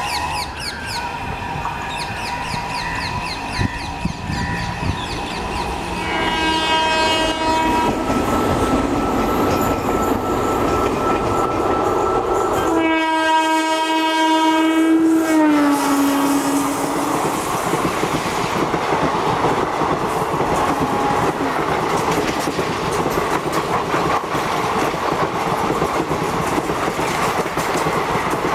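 WAP-1 electric locomotive hauling an express train, sounding its horn twice as it approaches; the second, longer blast drops in pitch as the locomotive passes. Then the steady rumble and clickety-clack of the passenger coaches running past.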